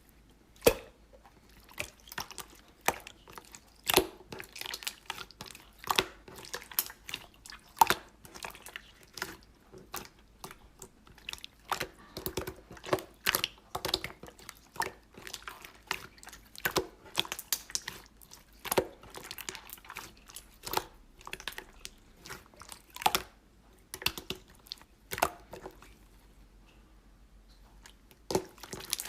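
Slime being squeezed and poked by hand: irregular sticky clicks and pops, several a second, with a short lull near the end.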